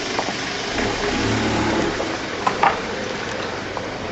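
A vehicle engine running, swelling briefly about a second in, with two short knocks about two and a half seconds in.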